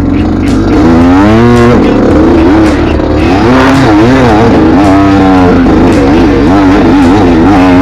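Motorcycle engine running under a constantly changing throttle, its pitch climbing and falling again and again.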